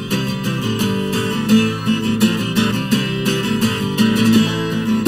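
Acoustic guitars strumming and picking the instrumental opening of a country-rock song, a live acoustic band playing in a steady rhythm.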